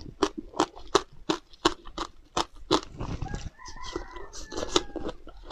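Close-up crunchy chewing of frozen passion fruit, sharp crunches coming about three times a second. The crunches thin out for about a second past the middle, where a faint drawn-out pitched call sounds behind them.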